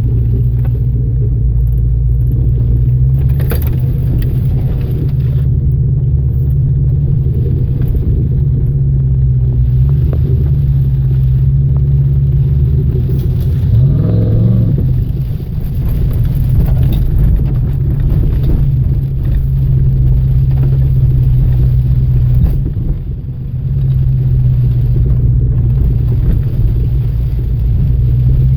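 Off-road vehicle's engine running steadily under way, with a rumble from the rough track. About halfway through the engine note dips and climbs back, and the level drops briefly twice.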